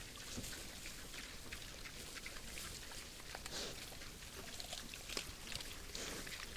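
Wild boars feeding: a steady patter of crackling and crunching, with a few short grunts.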